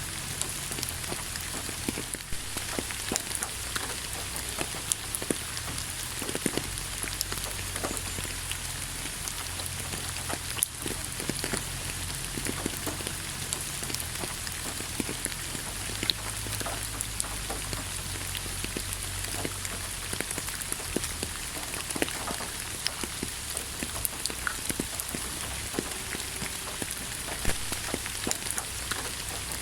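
Steady rain falling, an even hiss dotted with many sharp individual drop ticks, over a low steady rumble.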